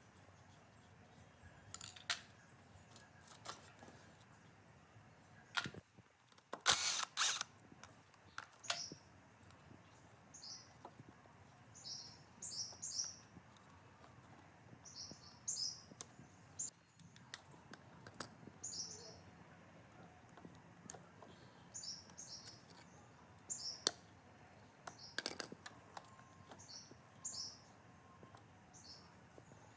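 Small birds chirping in short, repeated high notes, with a few sharp clicks and knocks from work in the workshop.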